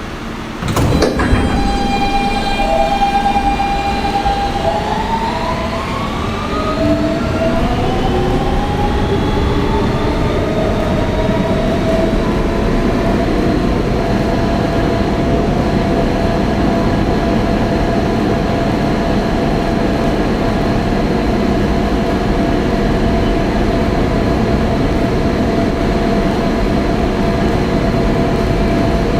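Kawasaki R160B subway car with Siemens propulsion pulling out: the doors thud shut about a second in, then the traction motors whine upward in pitch as the train accelerates, levelling off into a steady hum over the running noise of wheels on track.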